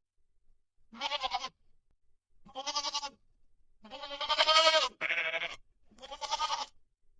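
An animal calling five times, about a second apart: wavering calls of half a second to a second each. The longest and loudest is about four seconds in, followed at once by a higher-pitched call.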